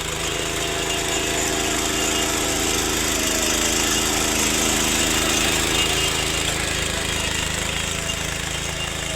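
Ploughing engine running steadily, louder around the middle and easing off slightly near the end.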